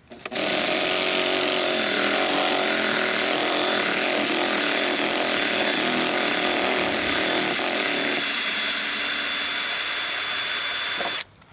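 Power tool running continuously for about eleven seconds, then cutting off suddenly near the end; some of its lower tones drop away about eight seconds in.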